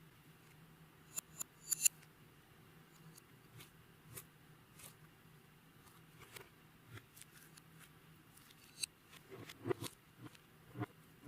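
Clear slime being worked by hand, giving scattered sticky clicks and pops, with a quick run of sharper crackles about two seconds in and a busier stretch near the end.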